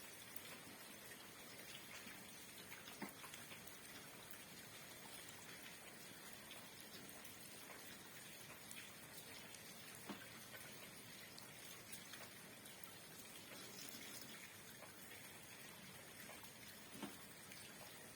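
Rain falling: a faint, steady hiss with a few single louder drops or drips now and then.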